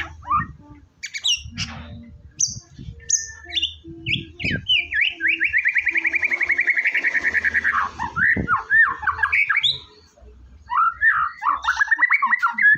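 White-rumped shama (murai batu) singing: clear whistled notes, then a long fast trill of about three seconds, followed by more whistled phrases and another rapid run of notes near the end.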